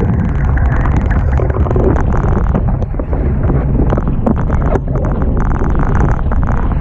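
Heavy wind buffeting the microphone over the rush of water past a Hobie Tiger catamaran sailing fast in strong wind, a continuous loud noise with brief dips about three and five seconds in.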